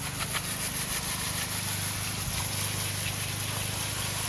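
A garden hose spraying water onto a Gen 3 5.3 V8 engine block, a steady hiss, over a steady low machine hum.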